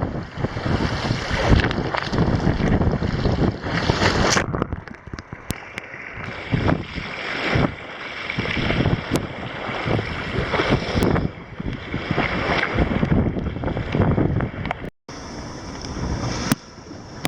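Wind buffeting the microphone and water rushing along the hull of a heeling sailboat, swelling and easing in gusts.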